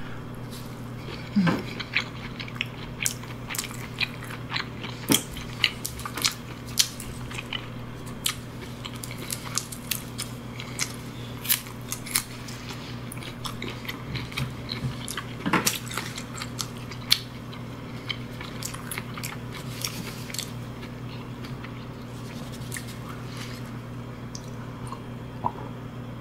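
Close-miked chewing and biting of food, a person eating a fish ball: frequent short wet clicks and smacks of the mouth, thinning out over the last several seconds, over a faint steady hum.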